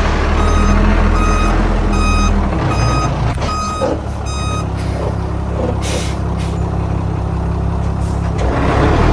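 A dump truck's reversing alarm beeping about once every 0.7 s over its diesel engine running. The beeps stop about halfway, followed by two short hisses of air and the engine picking up near the end.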